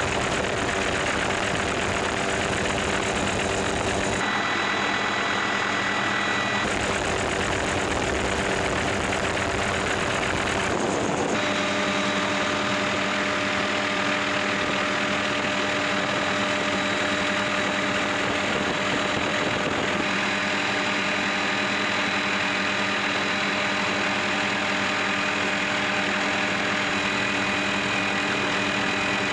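Helicopter engine and rotor noise, a steady drone with several fixed tones, shifting abruptly in tone a few times.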